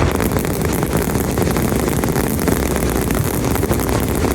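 Fireworks display: a steady low rumble with dense, continuous crackling.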